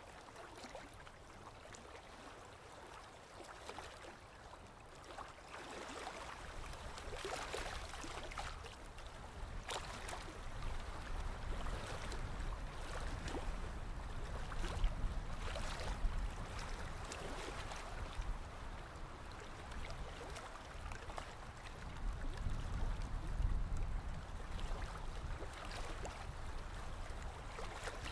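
Sea waves lapping and splashing, with a low rumble of surf that swells after about six seconds and again around twenty-two seconds.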